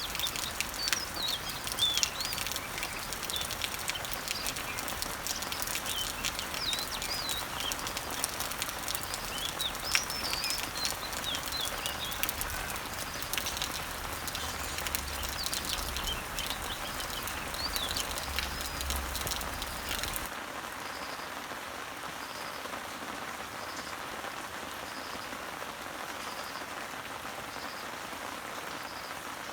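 Steady rain pattering on garden leaves, with dripping drops and birds chirping over it. About twenty seconds in, the sound changes abruptly: the low rumble and most of the drips drop out, and a short, high note repeats about once a second.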